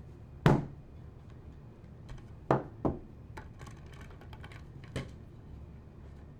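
A few hard knocks and clunks of wood being handled or set down: one about half a second in, a close pair about two and a half seconds in, and a lighter one about five seconds in, with small clicks between.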